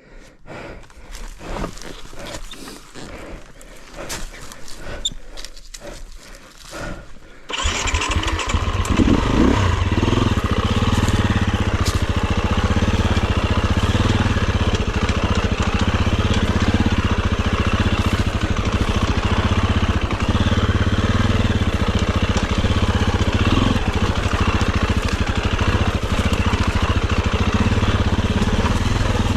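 Scattered clicks and knocks, then a dirt bike's engine starts about a quarter of the way in and runs steadily.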